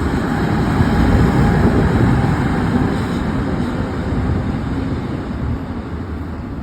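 Train passing close by: a loud, steady rumble.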